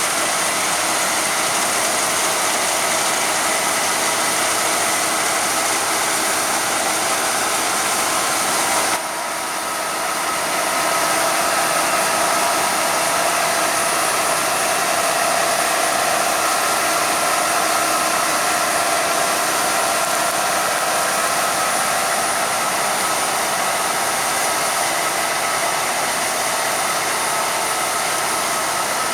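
Harvest machinery (combine harvester and grain-carting tractors) running steadily, a loud even whirring with a faint hum of engine tones. About nine seconds in the sound briefly drops and changes abruptly, then carries on just as steadily.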